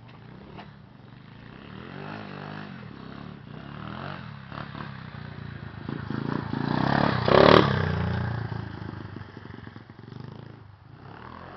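Pit bike engine running, growing louder as the bike comes closer, loudest with a brief clatter about seven seconds in, then fading as it moves off. The owners call the engine blown and broken.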